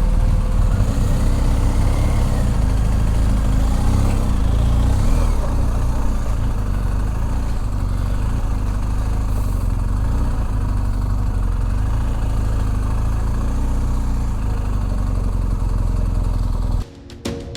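Motorcycle engine running steadily with a deep, even rumble. Near the end it cuts off abruptly and percussive music begins.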